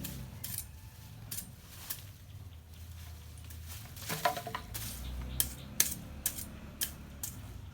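Irregular knocks and metallic clinks of hand tools clearing brush and rubbish from the ground, one clink ringing briefly about four seconds in.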